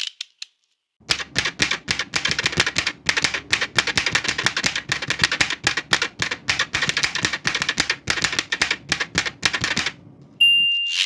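Old manual typewriter being typed on fast, a dense run of key strikes lasting about nine seconds after a short pause. Near the end the typewriter's margin bell rings once, signalling the end of the line.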